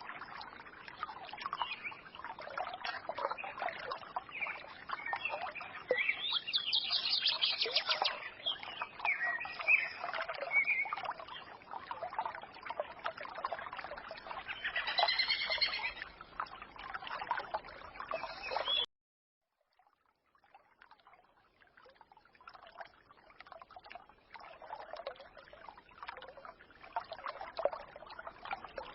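Small songbirds chirping and twittering over a trickling forest stream. About 19 seconds in, the sound cuts out abruptly for a second or so, then returns as a fainter trickle with only occasional chirps.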